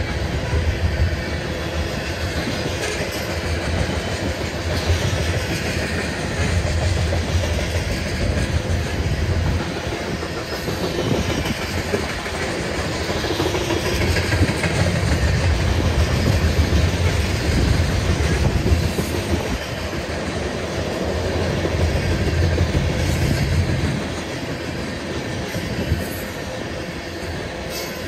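Freight train of covered hopper cars rolling past at steady speed: a continuous rumble of steel wheels on rail, swelling and easing in a regular rhythm as the wheels cross rail joints.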